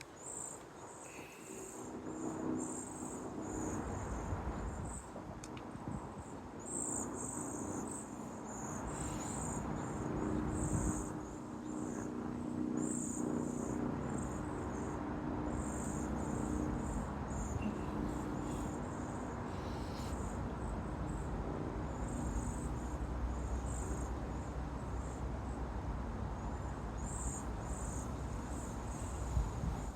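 Insects chirping in repeated high, pulsing bursts over a steady low hum.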